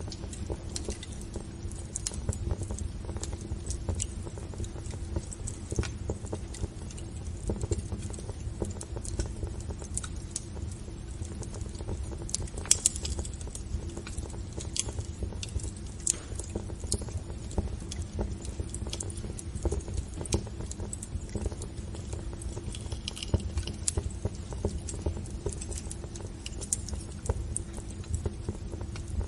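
Wood fire crackling, with irregular sharp pops and snaps over a steady low rumble of burning, one louder pop about halfway through.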